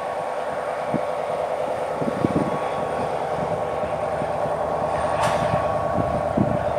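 A GE ES44AC diesel locomotive leading a freight train on approach, its engine running with a steady drone and a few low thumps from the train. A brief hiss comes about five seconds in.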